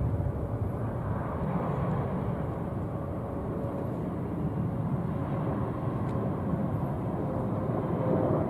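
Steady jet engine noise from an arriving Boeing 777-300ER's GE90 turbofans, heard outdoors, deep and even, with a faint steady hum in it.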